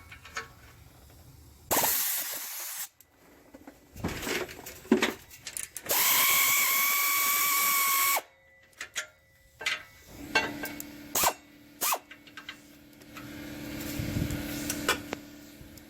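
Pneumatic air ratchet running in short bursts on stubborn exhaust bolts: a brief burst about two seconds in, then a steady two-second run with a whine about six seconds in. Scattered metallic knocks and clicks from tools and parts in between.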